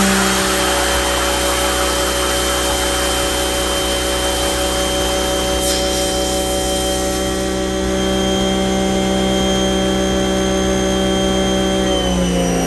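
Electric motor running steadily with a high whine, switched off near the end and winding down in falling pitch.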